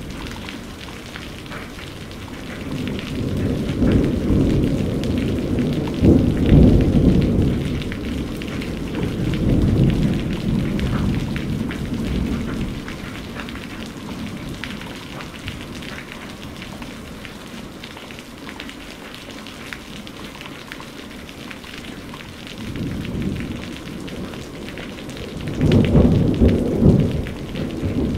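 Steady rain falling, with thunder rolling in twice. A long low rumble swells from about three seconds in and fades by about twelve seconds, and another builds up near the end.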